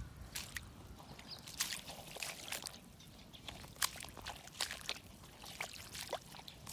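Footsteps squelching and sloshing through a flooded, waterlogged field: a string of short, irregular wet splashes.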